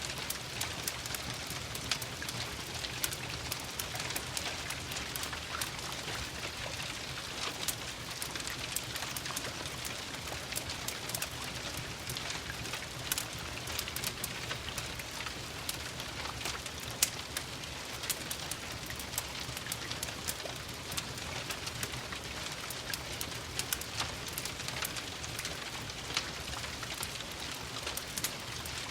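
Steady rain pattering, mixed with the frequent sharp crackles of a wood fire in a fireplace.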